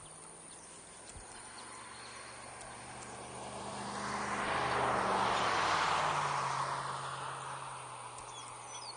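A vehicle drives past: a swell of noise that builds from about three seconds in, peaks midway and fades away, its low hum dropping in pitch as it goes by. A few faint bird calls come near the end.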